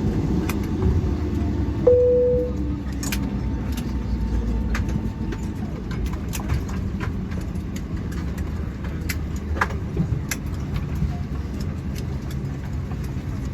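Boeing 757-300 cabin noise as the airliner comes to a stop: a low rumble, with an engine hum sinking in pitch as it winds down. Near two seconds in, a single short cabin chime sounds. It is followed by scattered metallic clicks and jingles.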